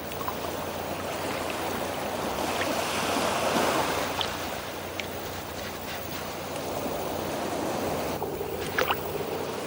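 Rushing, wash-like water noise that swells and eases, with a few faint clicks.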